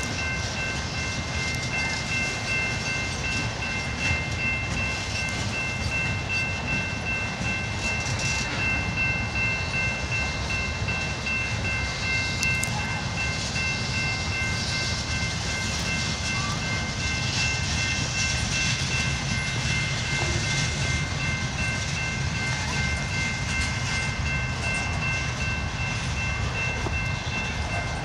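Freight train cars rolling past, a steady rumble and rattle of wheels on rail, with a steady high-pitched ringing tone over it.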